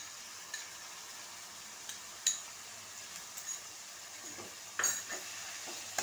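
Chopped tomatoes and onions sizzling in hot oil in an aluminium kadai while a spatula stirs them. A few sharp clinks stand out, the loudest about two seconds in and another near five seconds.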